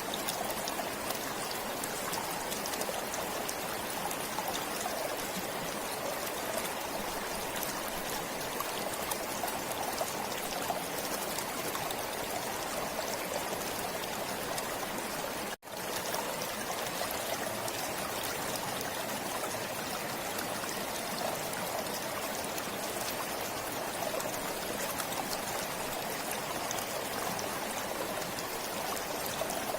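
Forest stream flowing and trickling steadily, with one momentary dropout about halfway through.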